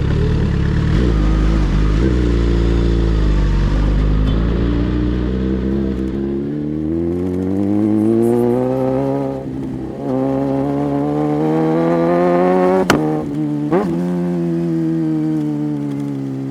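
Sport motorcycle engine pulling away and accelerating, its pitch climbing steadily through the revs, then running on at speed. Two short sharp clicks come near the end.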